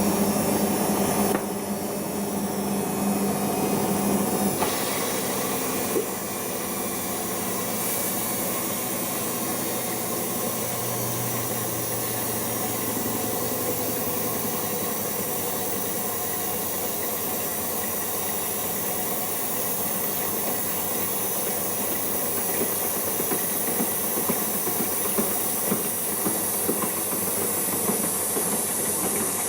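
Siemens iQ washing machine taking in water for its first rinse: a steady hiss of water rushing in, which starts suddenly, with a low hum over the first few seconds.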